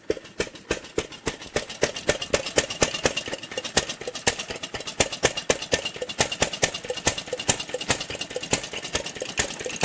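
Vintage lawn mower engine running slowly, firing as an uneven train of sharp beats about five or six a second. It runs slower than it should, which the owners think may be fuel starvation.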